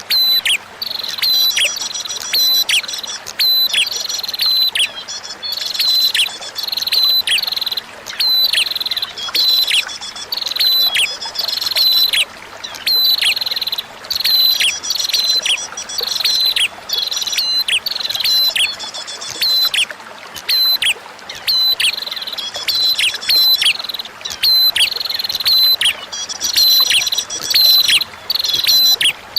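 Prinia (prenjak) song: rapid runs of sharp, falling chirps, repeated in phrases of a second or two with short pauses between them. Faint running water plays underneath.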